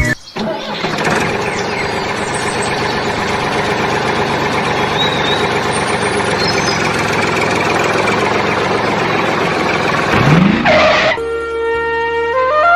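An engine running steadily and roughly for about ten seconds. Near the end a quick rising sweep cuts it off, and flute music begins.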